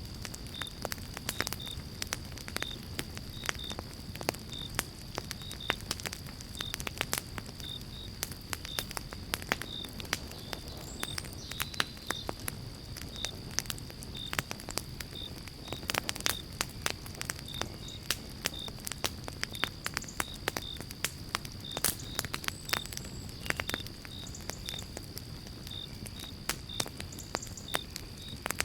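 Pine-log campfire crackling, with sharp pops scattered all through over a low steady rumble of the flames. A cricket chirps regularly, about one to two chirps a second, beside a constant high insect trill.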